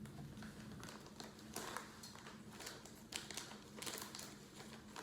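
Faint crinkling and rustling of a bird-food pouch being handled and opened, with a few scattered light taps.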